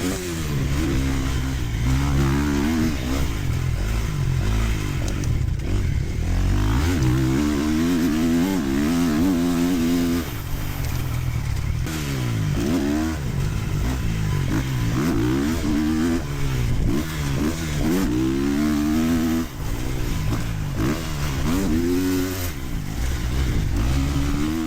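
450cc four-stroke motocross bike engine riding a track, its note climbing under throttle and dropping back over and over as the rider accelerates, shifts and rolls off.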